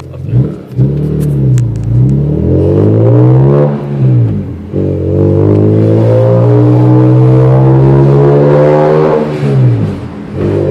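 BMW E46 M3's S54 straight-six running through a Gruppe M exhaust, revved up and down, then held at a steady, high speed for about four seconds before the revs drop near the end.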